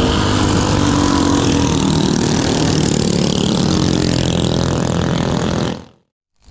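An engine running steadily at an even pitch, cutting off abruptly to silence near the end.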